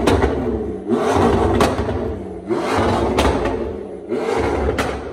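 McLaren 650S twin-turbo V8 being revved in repeated blips, about one every second and a half. The pitch rises and falls with each rev, and a sharp crack comes with each one.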